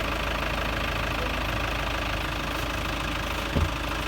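Vehicle engine running steadily with a constant low rumble, and a single brief low thump about three and a half seconds in.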